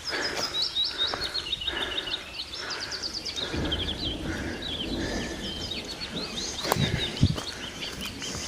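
Small songbirds singing, with quick high chirps and rapid trills running on over one another. A couple of sharp knocks come about seven seconds in.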